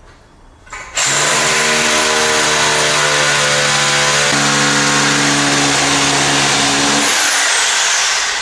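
Rotary hammer drill boring an anchor hole into a concrete floor slab. It starts about a second in, runs steadily at full speed for about six seconds, then winds down near the end.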